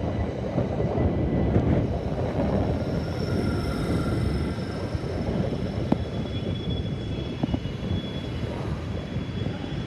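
Class 379 electric multiple unit pulling out of the platform, its running gear giving a thin steady high whine, under heavy wind buffeting on the microphone.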